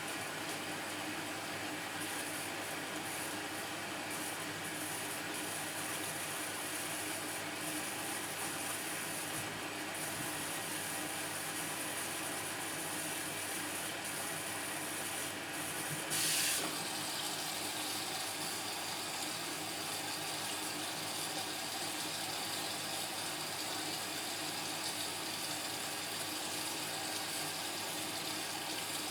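Indesit washing machine filling with water at the start of its Cotton 60 cycle: a steady hiss of water rushing in through the inlet valve and detergent drawer, with a short louder surge about sixteen seconds in.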